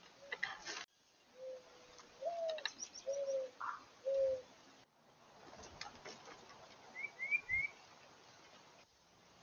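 A dove cooing: a long low coo followed by three shorter coos. A few seconds later a small bird gives three quick high chirps, with a few faint clicks around them.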